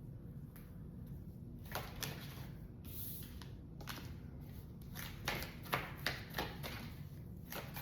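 Tarot cards being handled: a scattered series of light flicks and taps against a faint steady hum, coming more often in the second half.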